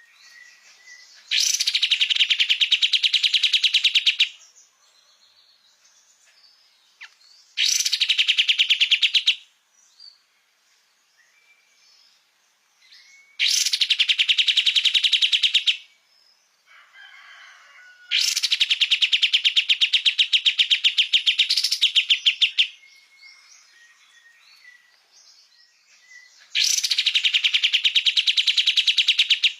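Kapas tembak songbird singing. It gives five loud bouts of fast, evenly repeated trilling notes, each lasting two to four seconds, with faint chirps in the gaps.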